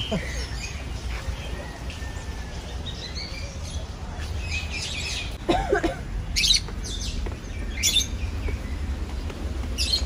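Aviary birds calling: a few scattered short chirps and squawks, mostly after about five seconds, over a steady low rumble.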